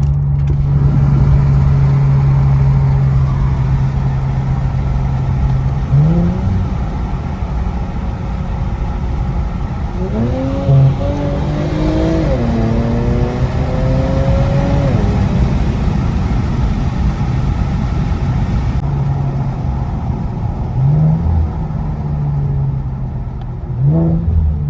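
Infiniti Q60's turbocharged engine heard through a muffler- and resonator-deleted exhaust from inside the car with the windows down. It holds a steady drone, then revs up several times: a long pull about ten seconds in that breaks for a gear change, and shorter rises near the end.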